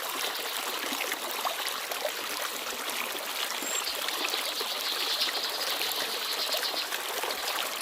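Small forest stream babbling and trickling, a steady rush of water flecked with many little splashes.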